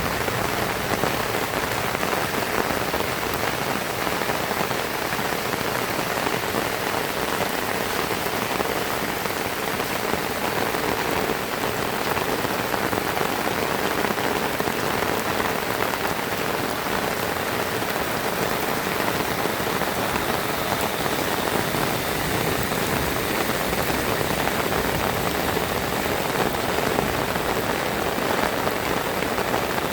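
Heavy rain falling steadily, an even loud hiss with no thunder.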